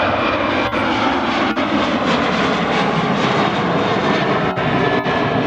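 Boeing 737-800 jet engines (CFM56-7B turbofans) running at takeoff power on departure, a loud steady roar whose pitch falls as the aircraft passes, with a faint fan whine sliding down.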